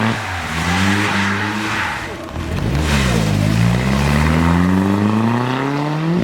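Rally car engine accelerating hard on a stage. The revs drop briefly about two seconds in, then climb in one long steady rise.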